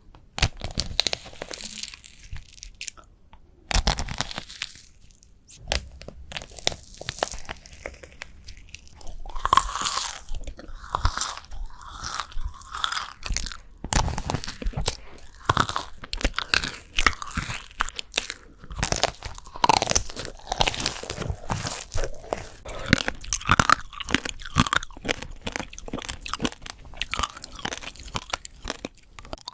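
Close-miked crunchy food being bitten and chewed, with irregular sharp crunches that become busier from about nine seconds in.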